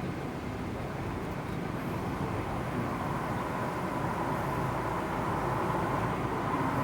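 Steady vehicle rumble that grows gradually louder, with a whine coming in about three seconds in and strengthening toward the end.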